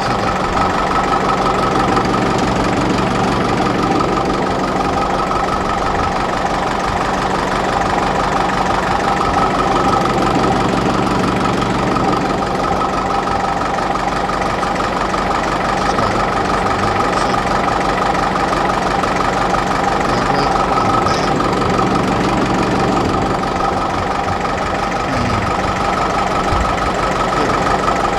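Ferguson TEF-20 tractor's four-cylinder diesel engine idling steadily, left ticking over to charge its low battery.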